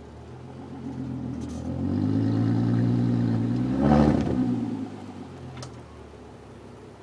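Volkswagen 24-valve VR6 engine revved: the engine note climbs and holds, rises to a peak about four seconds in, then drops back toward idle.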